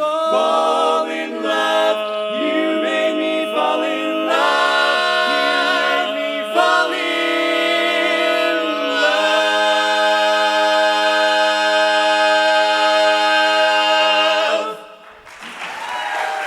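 Barbershop quartet singing a cappella in close harmony, moving through the closing chords of the song's tag and then holding one long final chord that cuts off together. Applause starts near the end.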